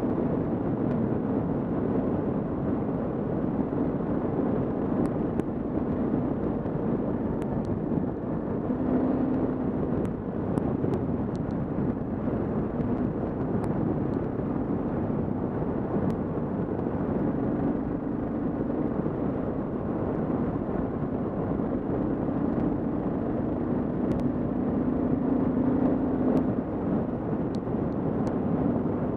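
Kawasaki KLR650 single-cylinder engine running at road speed under steady wind rush on a helmet-mounted camera. The engine hum swells and fades a few times.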